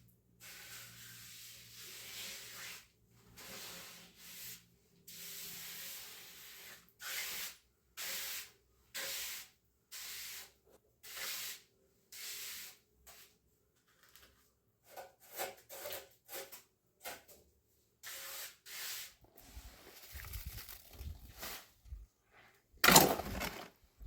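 Repeated rubbing or scraping strokes, roughly one a second, each a short hiss. A loud sudden bump comes near the end.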